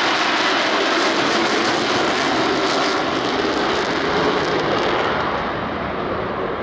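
Blue Angels F/A-18 Super Hornet jets passing in flight, a loud, steady engine roar. About five seconds in the roar starts to fade and grow duller as the jets move away.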